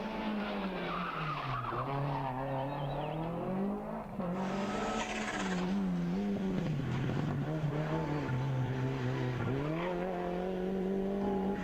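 Rally car engine revving hard and dropping back several times through gear changes and braking, with tyre noise underneath and a short burst of hiss about four seconds in.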